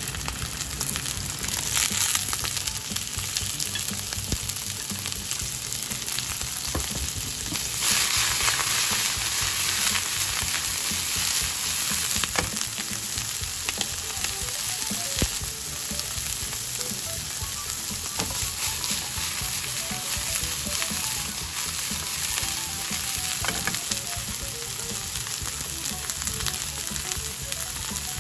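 Konnyaku pieces sizzling as they fry in oil in a nonstick pan, stirred with chopsticks. The sizzle is steady and swells louder about eight seconds in, with a few sharp ticks.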